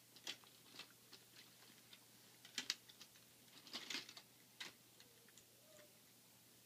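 Faint, scattered clicks and taps of toy train pieces and track being handled, a few irregular knocks with quiet between them.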